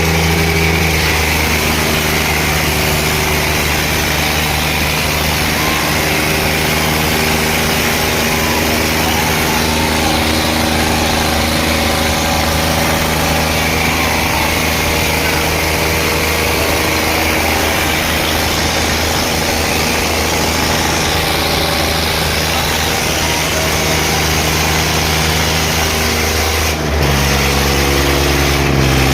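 Tractor diesel engine running steadily at a constant note, with a change in its note and a slight rise in level near the end.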